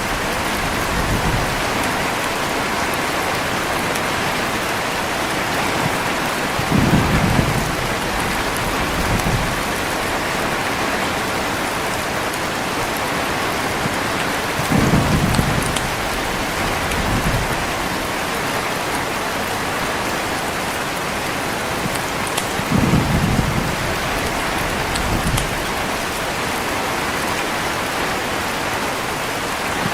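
Heavy, steady rain, with low rumbles of thunder coming in pairs about every eight seconds.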